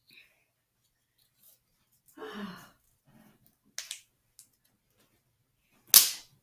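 A slap bracelet snapped against skin: one loud, sharp slap near the end, with a smaller sharp click a couple of seconds earlier and a short breathy sound before that.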